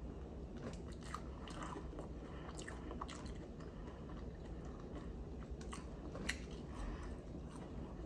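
Close-up chewing and biting of fried okra, with scattered small crunches and short mouth clicks.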